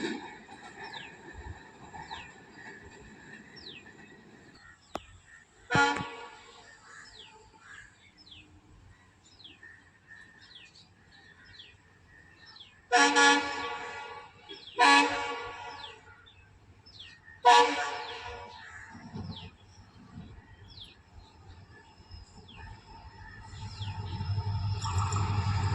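Horn of an approaching express train's WAP7 electric locomotive: one short blast, then three longer blasts a second or two apart. A low train rumble builds near the end as the train draws near.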